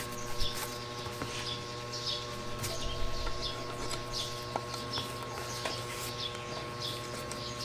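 Small birds chirping over and over in the background, short high calls every half second or so, over a steady low hum. A few faint clicks sound as parts are handled.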